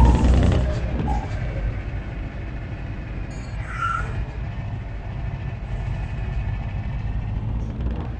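Vehicle engine running with a steady low rumble, louder in the first second and then settling. There is a brief high chirp about four seconds in.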